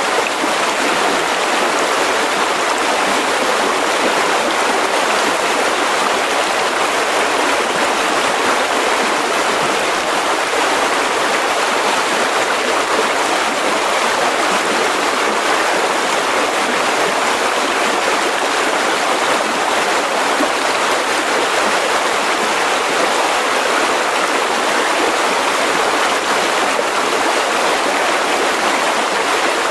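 Mountain river rushing and burbling over rocks in a steady, unbroken flow.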